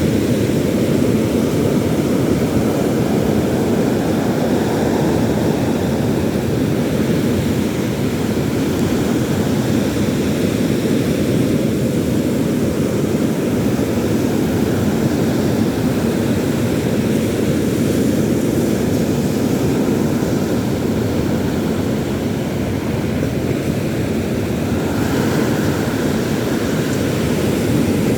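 Steady roar of sea surf and wind at the shore, with no distinct tones and only slow swells in level.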